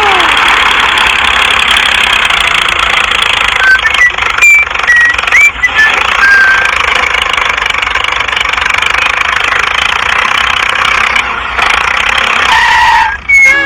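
Mini tractor's small motor running steadily with a dense, rattling engine noise, with a few short high squeaks about four to six seconds in.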